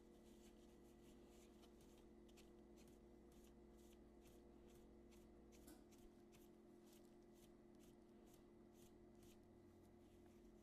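Near silence: faint steady hum with soft, evenly repeated scratchy rustles, about two a second.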